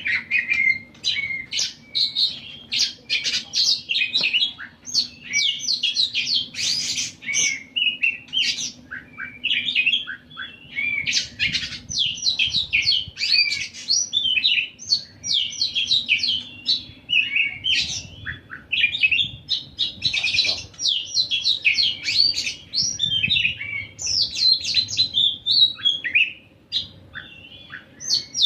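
A songbird singing non-stop ('gacor'), a rapid, varied run of chirps and trills in bursts of a few seconds with brief pauses, the kind of song played to tutor other songbirds. A faint steady hum lies underneath.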